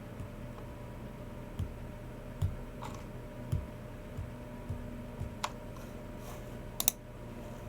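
Sparse keyboard and mouse sounds from a Logitech MX Keys Mini keyboard and G304 mouse: a handful of soft, low thuds through the middle, then two sharp clicks about five and a half and seven seconds in, over a steady low hum.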